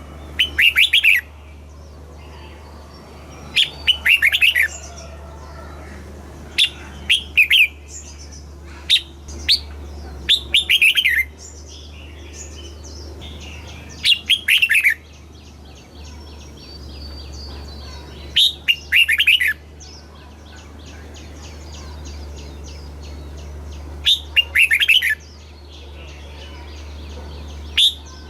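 Red-whiskered bulbul singing: about eight short, loud song phrases, each a quick run of notes falling in pitch and lasting about a second, spaced a few seconds apart, with softer chirping between them.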